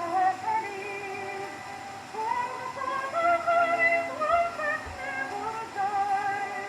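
A 1916 acoustic-era Victor record playing a melody with vibrato, which may be the soprano voice or the orchestra. It sounds thin and boxy.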